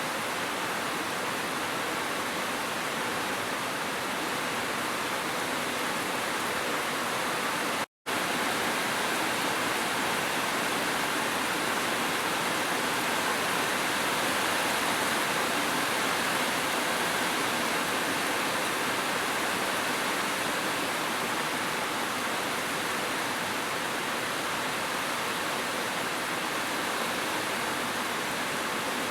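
Gentle rain and a waterfall: a steady, even rush of falling water, broken by a split-second gap of silence about eight seconds in.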